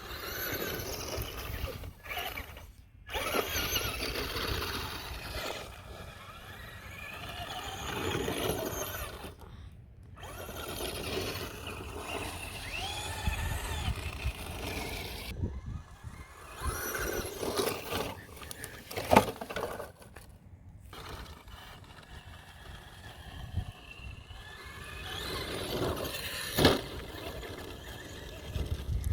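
Traxxas Slash radio-controlled trucks driving, their motors whining in a pitch that rises and falls with the throttle over a rough rumble of tyres on the ground. The sound cuts out briefly several times, and there are sharp knocks, the loudest about 19 seconds in and another near 27 seconds.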